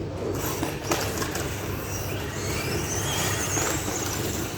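Mini 1:24-scale RC monster trucks racing off the start: high-pitched electric motor whine rising as they speed up, over continuous wheel and track noise.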